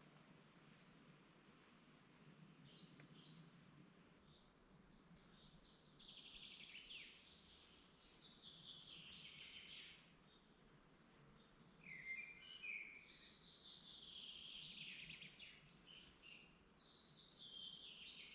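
Woodland songbirds singing: several long phrases of quick, descending notes, with a few shorter calls between them, over a faint steady low rumble.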